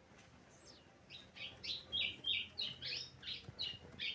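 A songbird singing a quick run of about ten short, high chirps, roughly three a second, starting about a second in.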